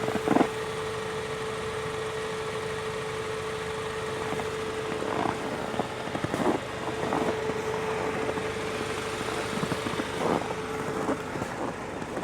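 Tank 300's engine idling: a steady hum with one constant tone that stops about a second before the end, and a few short knocks over it.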